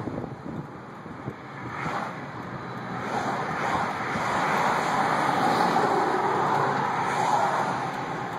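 Semi truck running, a rushing sound that swells over a few seconds and then holds loud.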